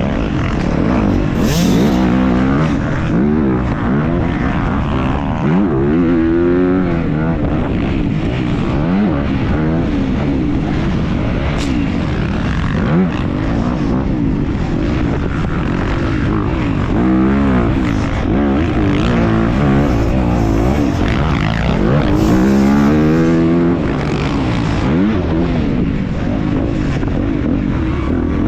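Motocross dirt bike engines at race pace, the pitch rising and falling again and again as the throttle is opened and shut through the turns and jumps.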